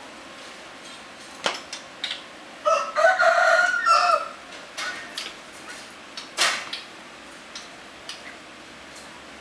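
A rooster crows once, about three seconds in, a single call of over a second. Light knocks of canvas slip-on shoes dropped and set on a tiled floor come before and after it, the sharpest about six and a half seconds in.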